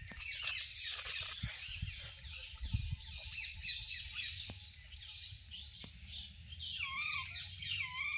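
Small birds chirping in quick repeated calls, with a few lower, wavering calls near the end.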